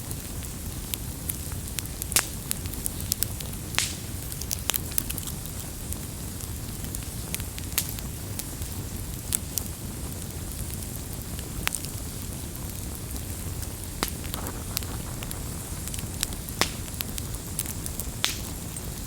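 Wood campfire burning with a steady low rumble and irregular sharp crackles and pops scattered throughout.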